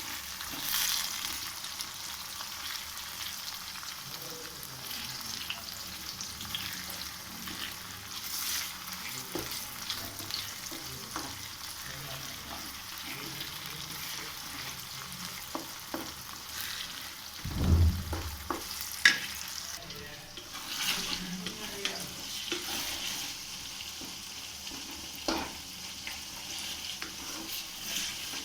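Chicken curry frying in a pan and being stirred: a steady sizzle with the scrape and clicks of the spoon against the pan, and one heavier thump about two-thirds of the way through.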